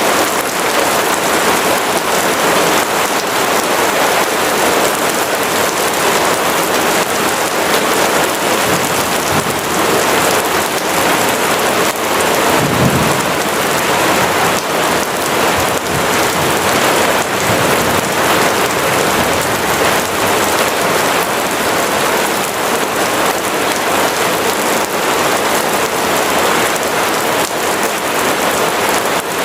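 Steady rain falling with an even hiss, and a low rumble of distant thunder rolling through about halfway in.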